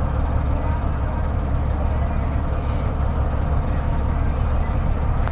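Ship's engine running, heard on board as a steady low rumble.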